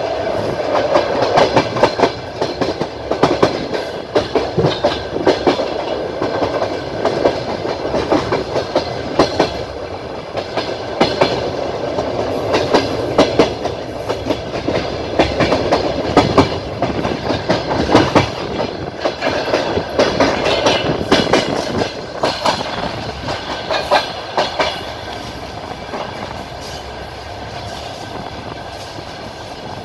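Passenger train wheels clattering over rail joints at speed, heard from aboard the coach: a steady rolling rumble with irregular sharp clicks, growing somewhat quieter near the end.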